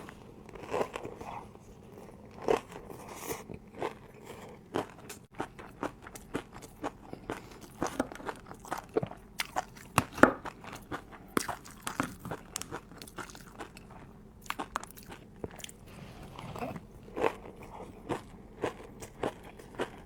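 A person chewing and biting crispy noodles close to the microphone: an irregular run of sharp crunches, several a second, the loudest about halfway through.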